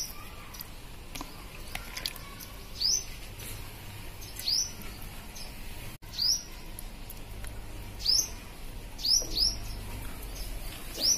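A bird chirping: short high chirps repeated every second or two, with several coming close together near the end.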